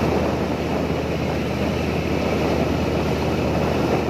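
Boat engine running steadily with a low drone, under an even rushing noise of water and air.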